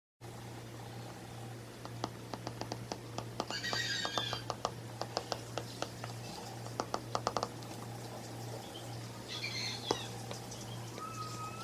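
Indoor room sound with a steady low hum, runs of quick light clicks, and a few short bird chirps.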